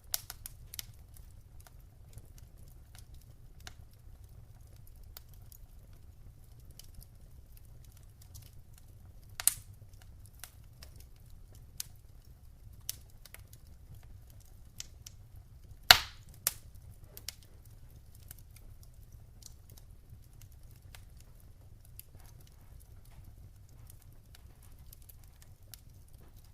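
Wood fire crackling in a fireplace: irregular small snaps and pops over a low steady rumble, with one loud pop a little past the middle.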